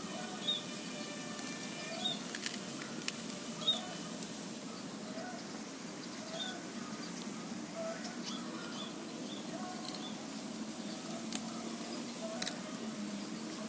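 Zebra dove (perkutut) calling with short, soft cooing notes repeated at irregular intervals. Brief high chirps, likely from other birds, and a few sharp clicks come in between, over a steady low background hum.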